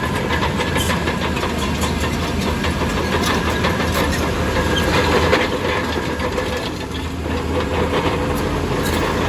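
Crawler bulldozer engine running steadily, with rapid metallic clicking and clanking from its steel tracks throughout.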